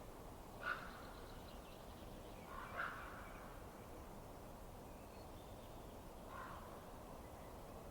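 Wood fire burning in a fireplace: a steady low hiss, with three short, louder call-like sounds, about a second in, near three seconds and after six seconds.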